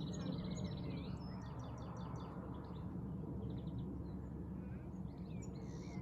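Steady low drone of a high-flying Airbus A400M's four turboprop engines, with small birds singing over it: a rapid trill about a second long, then scattered chirps.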